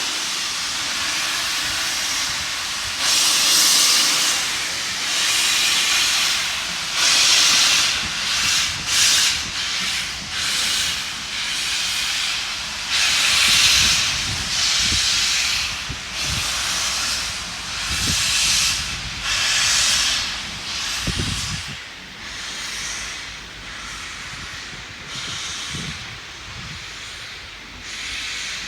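Steam locomotive departing: steady hiss of steam, then exhaust chuffs at about one a second that fade away over the last several seconds.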